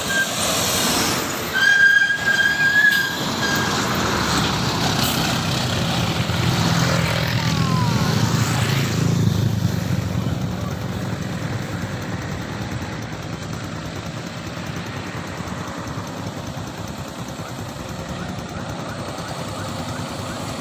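A vehicle horn sounds once for about two seconds, a second or two in. Then a heavy vehicle's engine passes on the road, loudest in the middle and fading away after.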